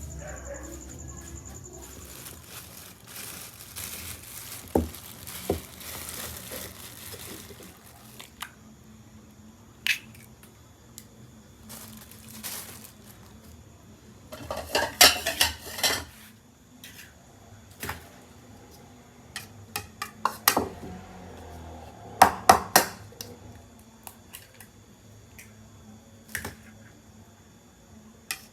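Dishes and utensils clinking and clattering in kitchen work: scattered knocks, with a louder burst of clatter about halfway through and another a few seconds later.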